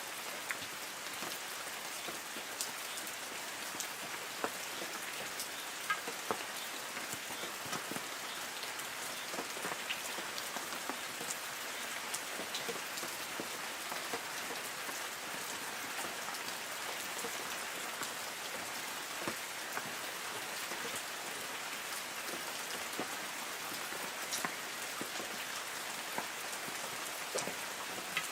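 Light rain falling on forest trees: a steady patter with many individual drops striking leaves.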